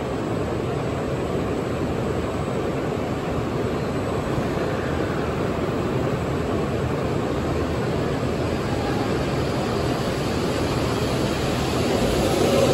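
West Kyushu Shinkansen Kamome N700S train pulling slowly out of the station, with a steady running and motor noise that grows a little louder and picks up a low hum near the end.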